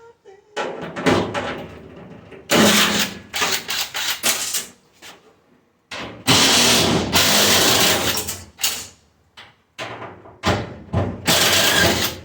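Stainless steel panels and parts of a restaurant dishwasher clanking and scraping as it is dismantled for scrap: two long stretches of loud metal noise with sharp knocks in between.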